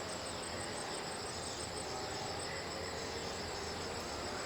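Insects trilling steadily: a high-pitched, rapidly pulsing chorus over a steady background hiss.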